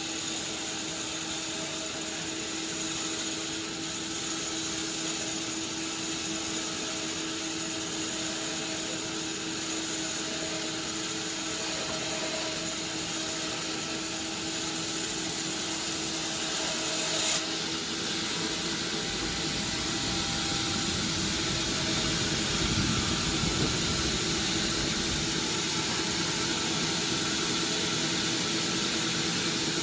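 Sawmill machinery running steadily with a constant hum and a high whine. About 17 seconds in there is a short sharp sound and the high whine cuts off, followed by a deeper rumble for several seconds.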